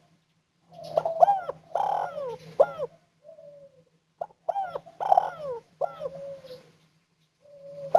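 Spotted dove (tekukur/derkuku) cooing in two phrases of repeated falling coos, with a short low note between them and a third phrase starting near the end. It is a 'kuk 1' tekukur, with a soft, clear final 'kuk' in each phrase.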